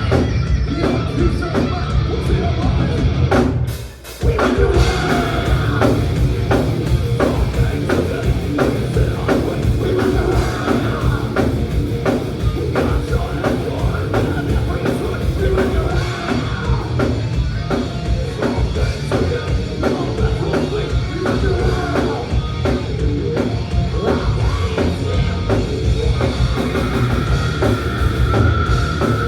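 Thrash metal band playing live: distorted guitars and fast drums. The band stops abruptly for a moment about four seconds in, then crashes back in.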